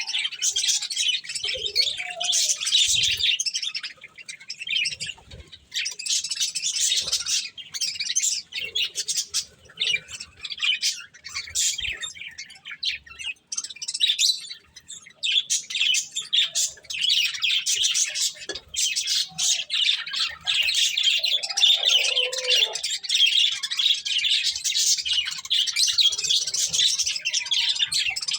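Budgerigars chattering and chirping without a break, several birds at once, with occasional squawks and small clicks.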